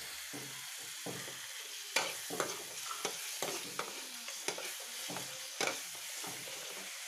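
Onion-and-spice masala frying in oil in a kadai, with a steady sizzle, while a metal ladle stirs it and scrapes and knocks against the pan over and over.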